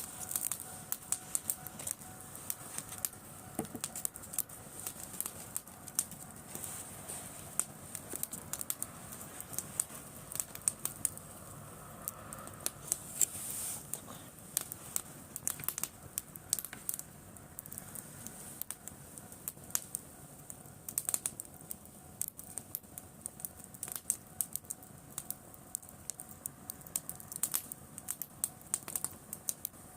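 Driftwood campfire crackling, with irregular sharp pops and snaps coming several times a second.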